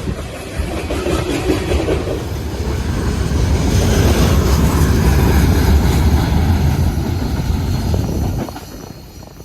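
Train sound effect of a passing train: a low rumble that swells over the first few seconds, holds, then fades away near the end.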